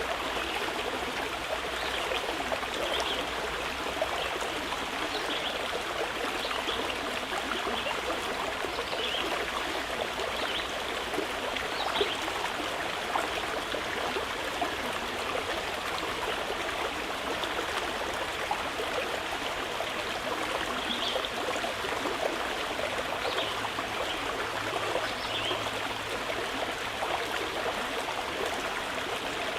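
Mountain river flowing steadily: a constant rush of running water, with short faint high sounds dotted through it.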